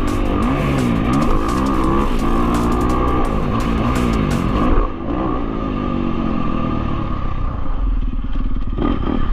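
Dirt bike engine revving up and down while being ridden, its pitch repeatedly rising and falling. About five seconds in the sound changes abruptly to a steadier, duller engine note.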